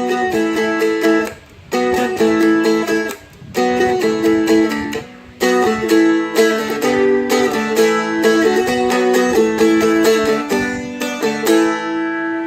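Seagull Merlin M4 strummed in quick chord strokes, playing the short part that leads into the chorus of a pop song; the phrases stop briefly every couple of seconds.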